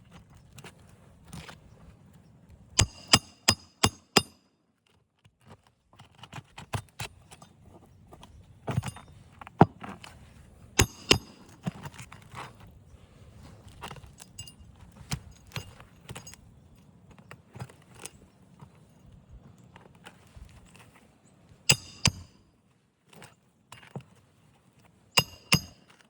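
Hammer striking a metal roof-snake tool to drive roofing nails under asphalt shingles: sharp, ringing metallic taps in quick runs of several, with quieter rustling between.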